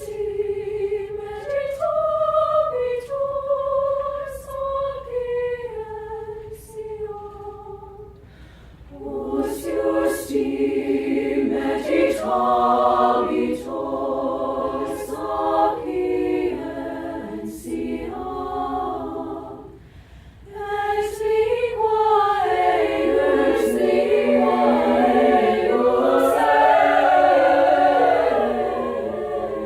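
High school choir singing a cappella. A single melodic line sings alone for about the first eight seconds, then the full choir comes in with chords in harmony. It breaks off briefly about two-thirds of the way through and comes back fuller.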